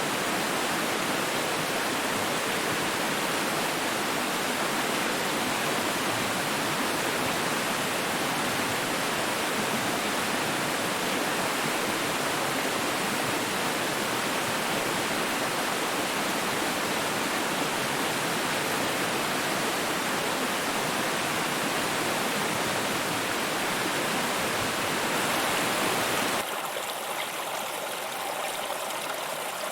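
Rushing water running steadily, like a stream or small waterfall. About three-quarters of the way through it cuts abruptly to a quieter, thinner flow of water.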